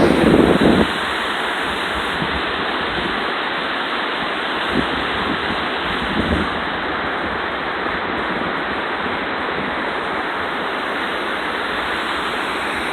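Small creek waterfall rushing steadily, with wind buffeting the microphone for about the first second.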